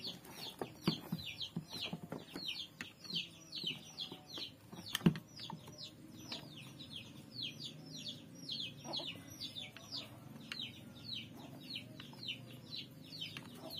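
A bird chirping over and over: short high calls that fall in pitch, about three a second. Underneath are light clicks of a screwdriver turning the screws of a sprayer's pump housing, with one sharp click about five seconds in.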